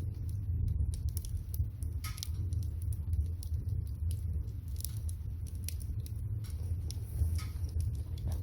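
Firewood fire crackling with scattered sharp pops under a pot of water being heated to the boil, over a steady low rumble.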